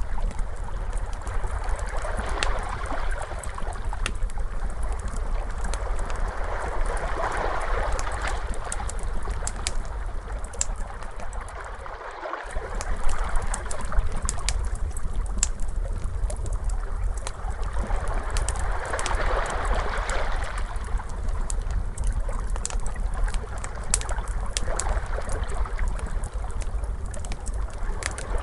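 Ocean waves washing in and out in slow swells, overlaid with a wood fire's frequent sharp crackles and pops.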